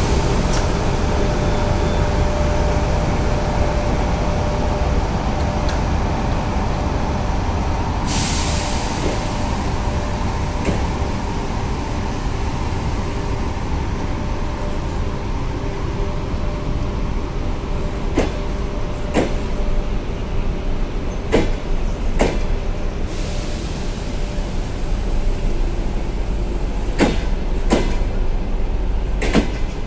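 Passenger train pulling out behind an EP1M electric locomotive: a steady rumble with the locomotive's hum, a hiss about eight seconds in, then wheels clacking over rail joints, often in pairs, in the second half.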